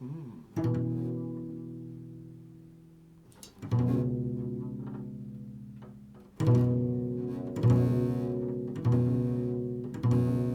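Low plucked string notes, each struck sharply and left to ring and fade: a long gap after the first two, then notes about a second apart toward the end.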